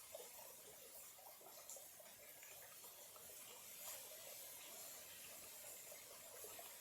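Small clear-water stream trickling softly, a faint steady burble of little irregular gurgles over a light hiss.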